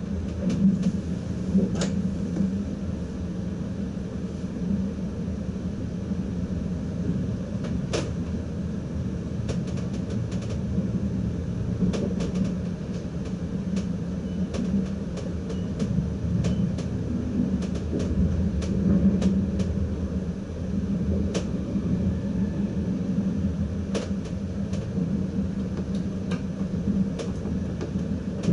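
Inside the cab of an NS ICM Koploper electric train in motion: a steady low running rumble and hum, broken by frequent sharp clicks at irregular times as the wheels cross points and rail joints.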